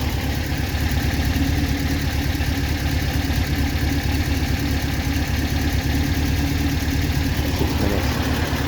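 Classic Porsche 911's carburetted, air-cooled flat-six idling steadily during a hydrogen carbon clean. It is running evenly, like a Swiss clock, after the clean.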